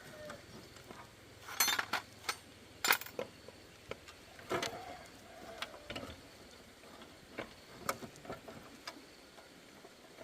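Irregular clinks and knocks of hard objects, like metal tools being picked up and set down, with a loud cluster about two to three seconds in and one knock that rings briefly.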